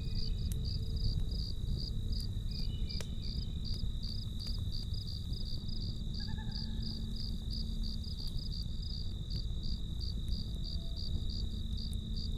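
Crickets chirping steadily, high-pitched pulses at about three a second, over the low rumble of a campfire with a few sharp crackles. A low steady hum underneath stops about two thirds of the way through.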